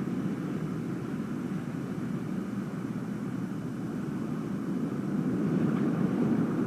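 Recorded sound of wind: a steady, even rushing, soft and monotonous, a gentle warm wind rather than a harsh wintry gale.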